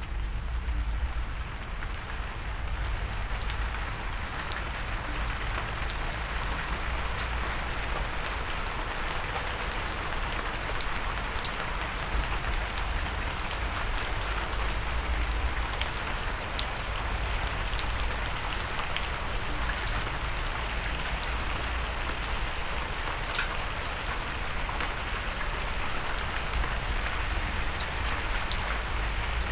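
Steady rain falling, with a continuous hiss and many scattered individual drops ticking close by.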